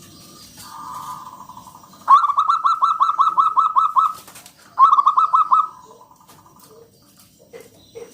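A zebra dove (perkutut) coos: a soft opening note, then a run of quick, evenly repeated cooing notes, about six a second. After a short pause comes a shorter second run that trails off. This call is used as a lure to set other zebra doves calling.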